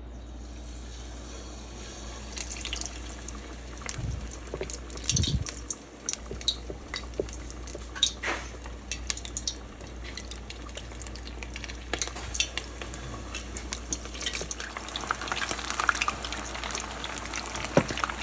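Batter-coated chicken wings deep-frying in hot oil: a steady sizzle dotted with frequent pops and crackles, with a couple of dull knocks about four and five seconds in.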